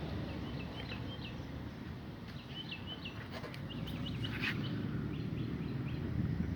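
Small birds chirping: quick, short, high calls in irregular runs, heard over a steady low background rumble.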